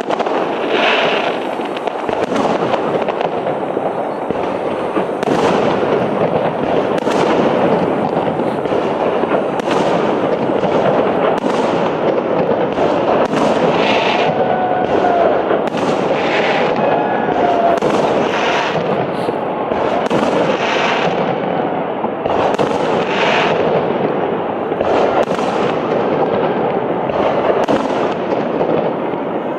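Fireworks salute: a dense, continuous barrage of shells bursting, with many sharp bangs over a steady rumble and crackle.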